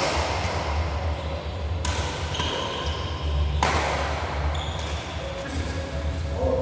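Rally in an indoor sports hall: four sharp echoing hits, about two seconds apart, with short squeaks between them over a steady low hum.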